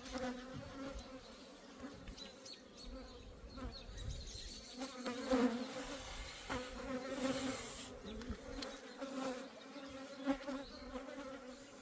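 Honeybees buzzing around an open hive: a steady, many-voiced hum, with a few faint knocks over it.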